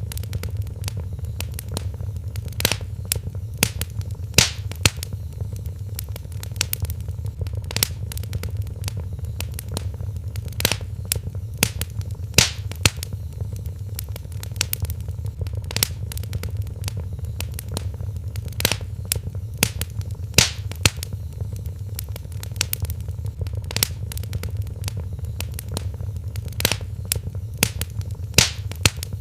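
Wood fire in a fireplace crackling: irregular sharp pops and snaps, several louder ones scattered through, over a steady low rumble of the burning fire.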